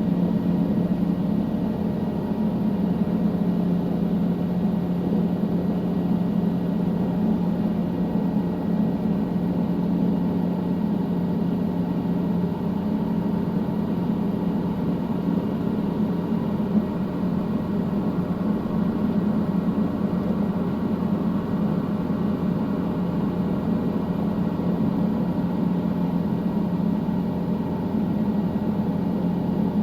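Helicopter engine and rotor noise: a steady, unchanging drone with a strong low hum.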